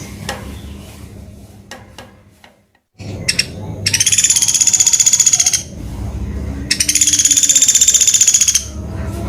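Pelatuk beras woodpecker calling twice, each call a rapid, high, buzzy trill of about two seconds, over a low hum.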